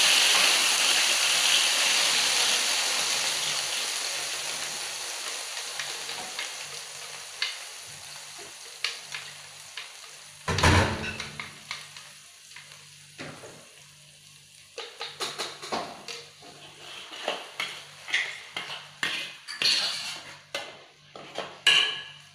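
Blended spice paste sizzling in hot oil in a wok, loud at first and fading steadily over about ten seconds. A single thud comes about ten seconds in. From about fifteen seconds a metal spatula scrapes and clicks against the wok as the paste is stirred.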